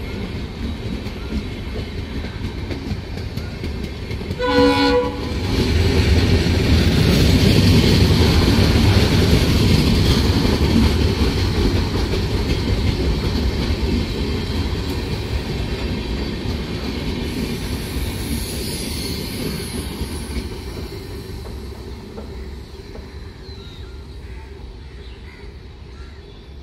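A train sounds one short horn blast about four seconds in, then passes close by with a loud rumble of wheels on rails that slowly fades away.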